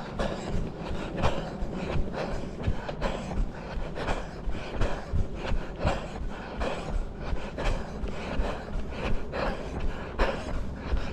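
A runner's heavy, rhythmic breathing and footfalls while jogging, repeating steadily about once a second, over a low rumble on the microphone.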